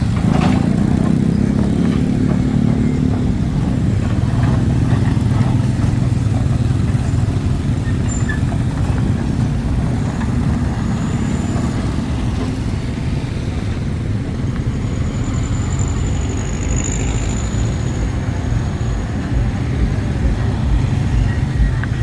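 Heavy engines running steadily at the roadside with a continuous low drone.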